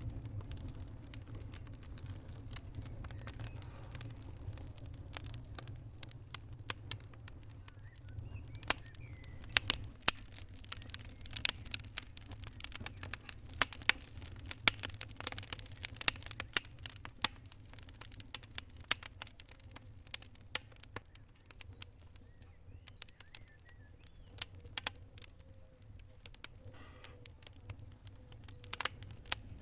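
Wood fire crackling: irregular sharp pops and snaps, thickest in the middle and again near the end, over a low steady rumble of the burning.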